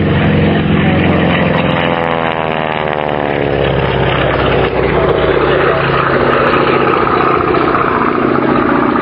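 Spartan 7W Executive's Pratt & Whitney R-985 Wasp Junior radial engine in a display pass, its pitch falling about two to four seconds in.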